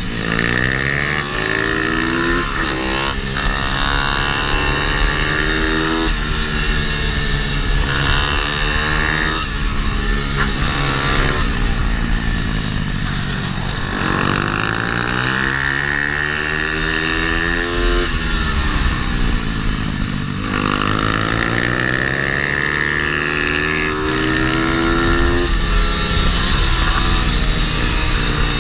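Pitbike's small single-cylinder engine being ridden hard around a kart track. Its pitch climbs over two to four seconds under acceleration, then drops sharply as the throttle is rolled off, over and over through the laps.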